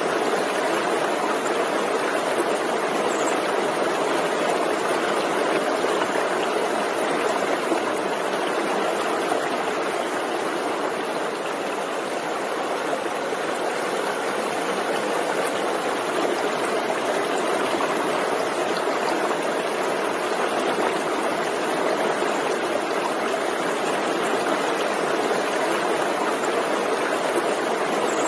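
Forest stream running steadily: an even, unbroken rush of flowing water.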